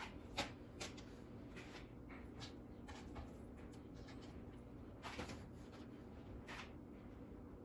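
Faint, scattered rustles and soft clicks of hands picking meat and skin off a rotisserie chicken carcass, over a steady low hum.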